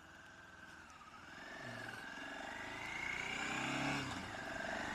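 Motorcycle engine pulling away, getting louder and rising in pitch, with a brief dip about four seconds in.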